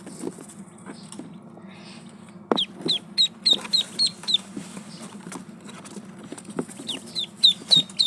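Ducklings peeping: a quick run of short, high peeps that fall in pitch about halfway through, and another run near the end, over a steady low hum.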